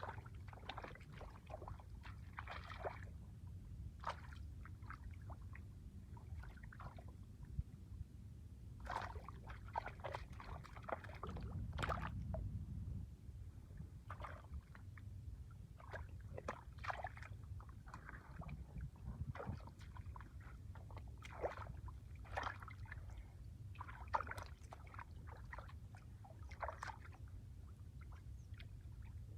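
Shallow water sloshing and splashing in short, irregular bursts, typical of wading through and working a drained, muddy fishing spot, with a steady low rumble underneath.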